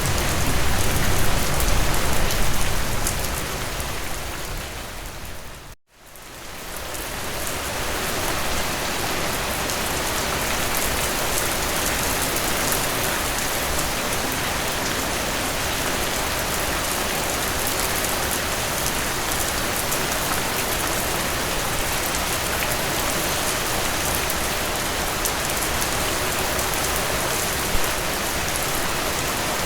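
Steady rain falling, an even hiss of many drops. In the first few seconds it is heavier, with more low rumble. Just before six seconds in, it fades out to a moment of silence and then fades back in.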